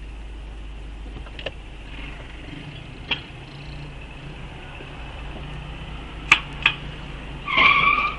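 Steady low hum of a car on the road, heard through a dashcam, with a few sharp clicks. Near the end comes a short, high, steady tone lasting about half a second, the loudest sound here.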